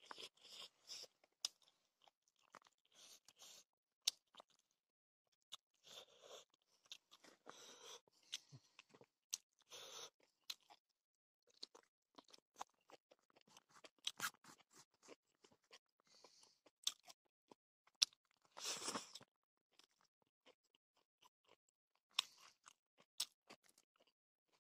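Faint close-up sounds of a person eating a rice meal by hand: chewing with scattered mouth clicks and short soft crunches.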